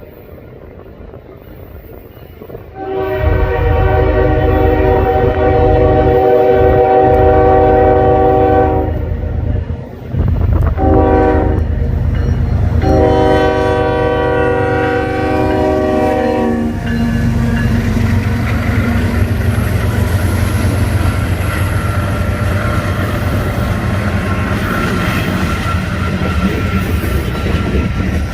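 A diesel freight locomotive's multi-chime air horn sounds a long blast, a short blast and another long blast, the close of a grade-crossing warning sequence. The train then rolls past with a steady low rumble and the clatter of wheels on rail.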